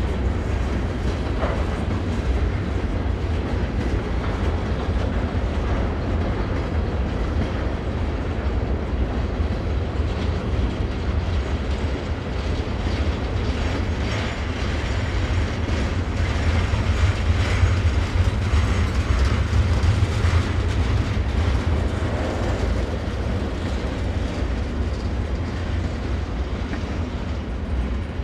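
A freight train rolling steadily across the railroad bridge: a continuous low rumble with the clickety-clack of its wheels over the rail joints.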